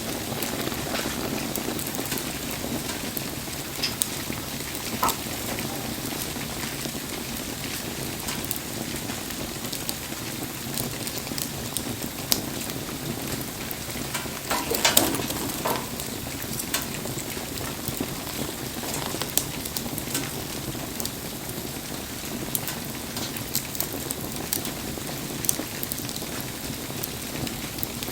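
Wood fire burning in steady rain: an even patter of rain with scattered crackles and pops from the fire, and a brief flurry of louder pops about fifteen seconds in.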